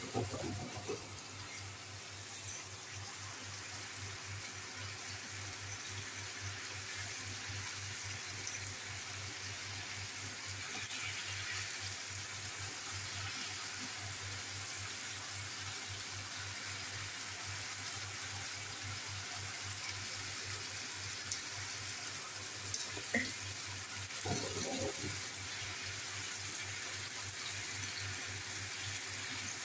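Meat and sliced white onions sizzling steadily in a frying pan.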